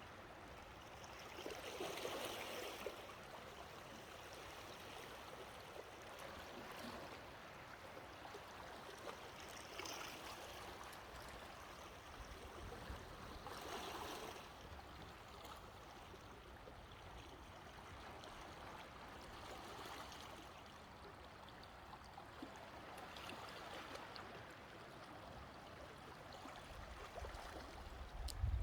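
Faint sea waves washing on the shore, a soft rushing that swells and falls away every several seconds.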